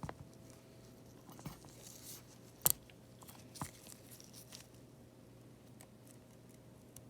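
Small tools clicking and scraping on the iPad's frame while glass fragments and old screen adhesive are picked and scraped off, a few scattered short clicks with the sharpest about two and a half seconds in.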